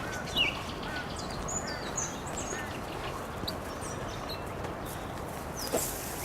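Wild birds calling at dawn: a scatter of short chirps, whistles and quick downward-sliding calls from several birds, with a louder call about half a second in and another near the end.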